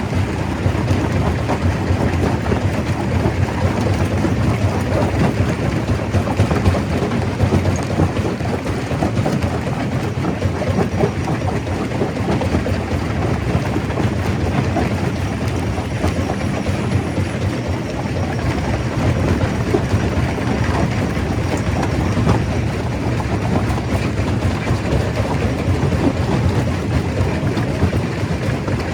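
Stone crusher machine running, a steady heavy rumble with continuous dense rattling and crackling of rock being broken.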